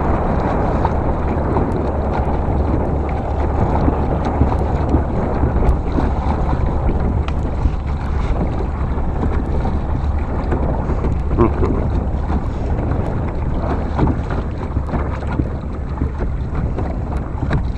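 Wind buffeting the microphone with a steady low rumble, over the lap of water around a kayak on a lake, with a few faint clicks scattered through.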